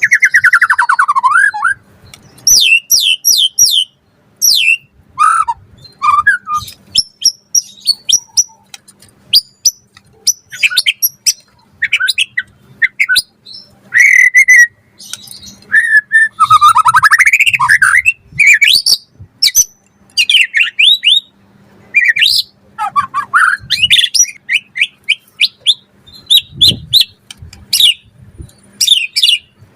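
White-rumped shama (murai batu) singing vigorously: a long, varied run of loud whistled notes, fast trills and rising and falling sweeps, broken by short pauses.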